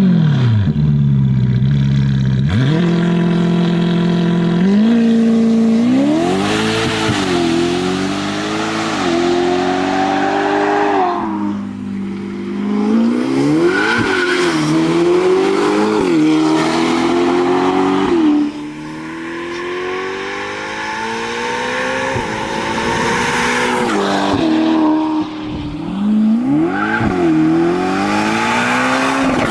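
Ferrari Portofino M's twin-turbo V8 breathing through a NOVITEC stainless-steel sport exhaust, run up hard several times. The pitch climbs, drops back at each gear change and climbs again, then falls away when the throttle is lifted, around 11, 18 and 25 seconds in.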